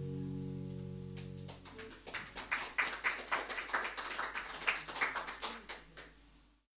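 Final guitar chord ringing, then damped about a second and a half in, followed by a few seconds of scattered clapping from a small audience that stops suddenly.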